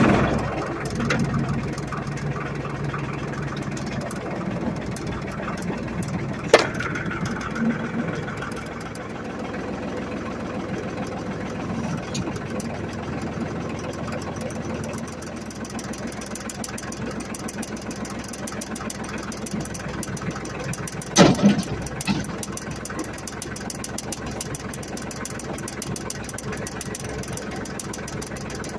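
Ford 1720 compact tractor's three-cylinder diesel engine running just after starting, a little louder for the first several seconds and then settling to a steady idle. A sharp clank comes about six seconds in, and a few loud knocks around twenty-one seconds in.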